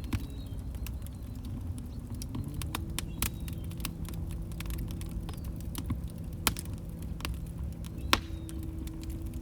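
Log fire crackling: scattered sharp pops and snaps, four of them standing out with the loudest near the end, over a steady low rumble of the burning fire.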